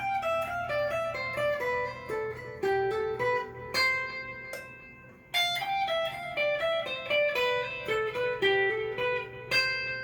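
Cort S series electric guitar played clean through a Fender amp: quick runs of single picked notes in two phrases, with a short break about halfway through.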